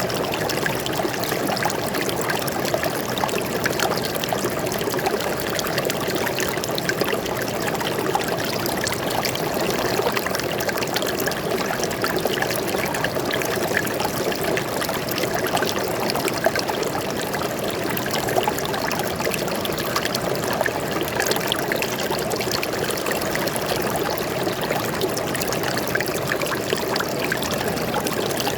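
Stream water flowing and trickling steadily over rocks, a continuous babbling with small splashes.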